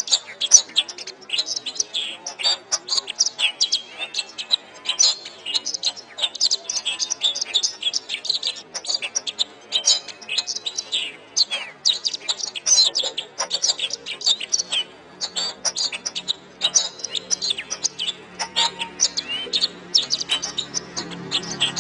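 Domestic canary singing a long, fast, continuous song of rapid chirps, trills and rolls. A low steady hum comes in during the last few seconds.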